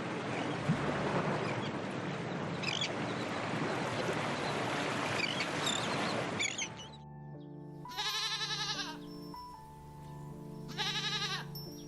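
Background music with two quavering bleats from a sheep or goat, each under a second long, about eight and eleven seconds in. Before them, for about seven seconds, a steady rushing noise with a few brief high chirps; it cuts off suddenly.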